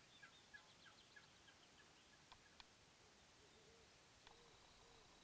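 Faint wild birdsong: a quick series of short high chirps, then a few low, arching calls, with a couple of sharp ticks between them.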